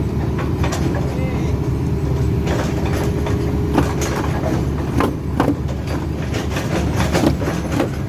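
Cat 320D2 excavator's diesel engine running steadily, with a scattering of sharp metallic knocks from the track work.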